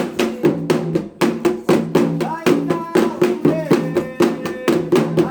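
Candomblé atabaque drums played in a steady, driving rhythm of about three strokes a second, with voices singing a chant over them.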